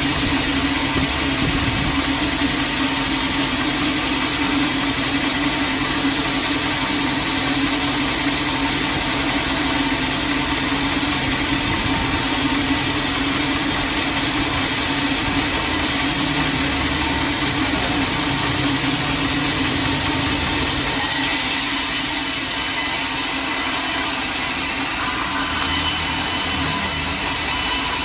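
Sawmill saw running steadily as it cuts through a log, with a steady hum under the cutting noise. About three-quarters of the way through, a higher whine with several steady high tones joins in.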